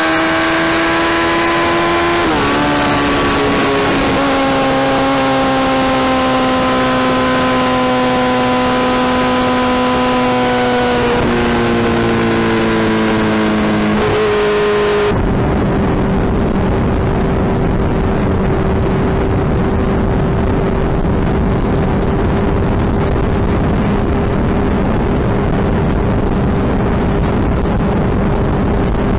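Suzuki Hayabusa inline-four motorcycle engine running at road speed, heard from on the bike. Its pitch drops in steps about two seconds in, again near eleven seconds, and around fourteen seconds, as at gear changes. After that it settles into a steady drone under rushing wind.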